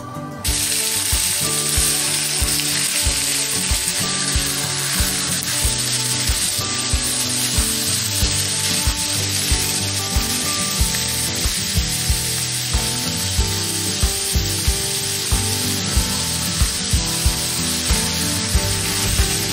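Garlic and sliced pork frying in hot oil in a wok: a steady sizzle that starts suddenly about half a second in. Background music with a steady beat plays underneath.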